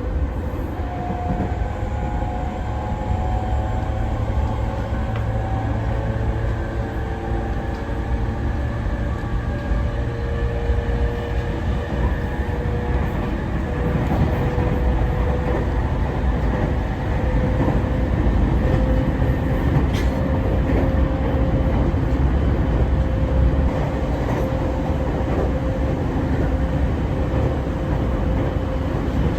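Commuter electric train running, heard from inside the passenger car: a steady low rumble of wheels on rails with a thin, steady whine above it.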